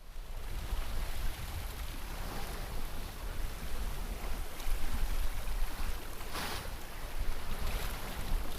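Sea water sloshing and splashing against a sailboat's hull, with wind buffeting the microphone in a steady low rumble. A louder splash comes about six and a half seconds in, with smaller ones before and after.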